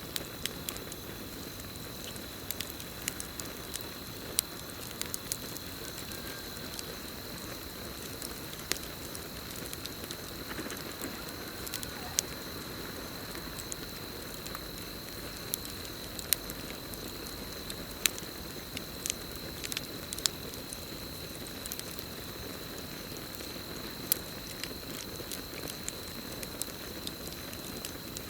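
Campfire burning, a steady crackling hiss with sharp pops scattered throughout, over a continuous high steady trill of crickets.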